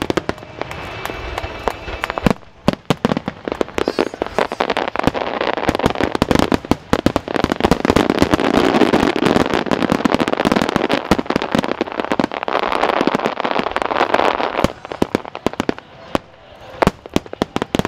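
Wide starmine fireworks barrage: shells bursting in rapid, overlapping bangs and pops, densest from about two seconds in, thinning to scattered single bangs for the last few seconds.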